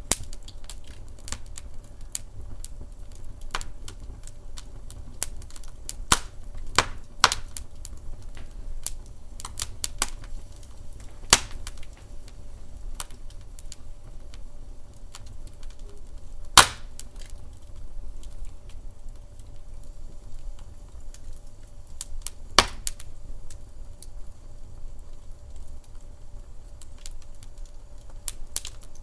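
Wood fire crackling in a fireplace: a steady run of small irregular crackles with a few sharp louder pops, the loudest a little past halfway, over a low steady rumble.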